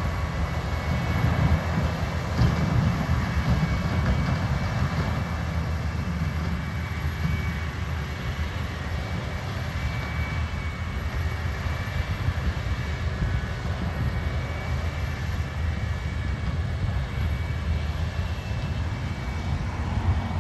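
Beet harvesting machinery running steadily: a low engine drone under a constant mechanical rumble.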